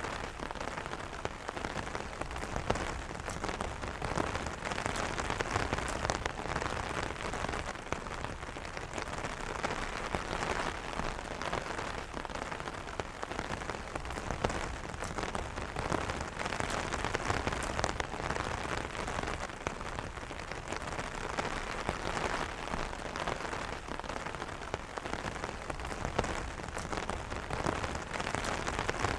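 Steady rain falling on an umbrella: a dense, even patter of many small drop impacts.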